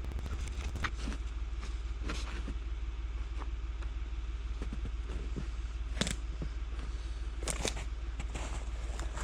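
An engine idling with a steady low hum, with scattered short clicks and knocks over it.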